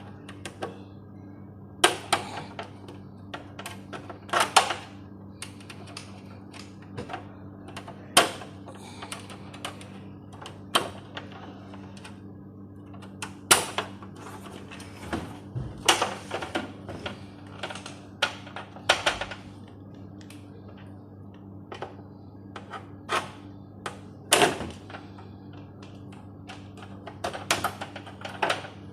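Irregular clicks, taps and knocks of tools and parts being handled during an LED TV backlight repair, over a steady electrical hum.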